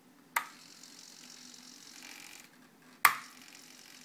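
A sharp click, then about two seconds of faint whir from the RC model's flap servo, slowed by a servo speed regulator, moving the flaps slowly. A second sharp click about three seconds in.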